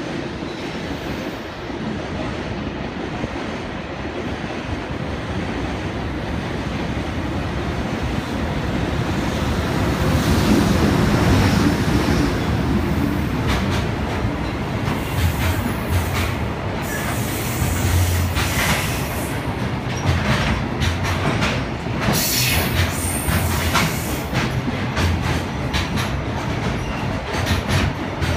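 JR Freight EH500 electric locomotive and its container train running through the station: a rumble that grows louder and peaks as the locomotive passes about ten seconds in, then the long string of container wagons rolling by, the wheels clicking rhythmically over rail joints with a high squeal and hiss.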